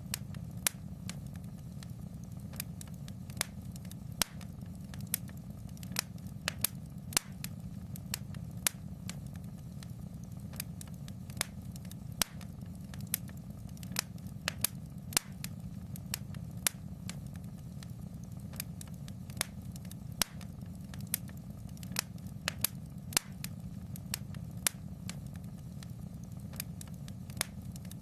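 Wood fire in a fireplace crackling: sharp, irregular pops and snaps, several a second, over a steady low rumble.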